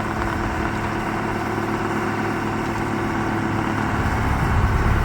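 Snowblower engine running steadily, clearing deep snow.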